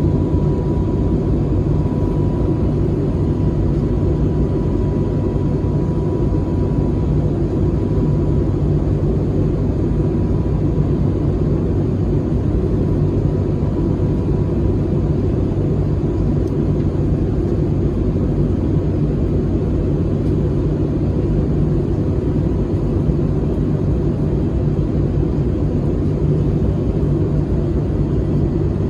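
Steady in-flight cabin noise of an Airbus A321neo airliner: a constant deep rumble of engines and airflow with a faint steady whine above it.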